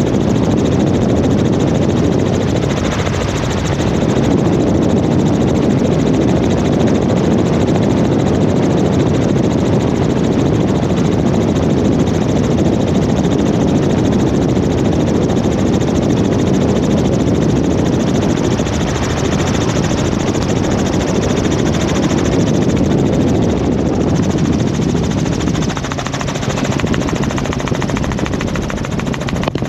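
Helicopter in flight heard from inside the cabin: a loud, steady rotor and engine drone with a low hum. It eases slightly near the end.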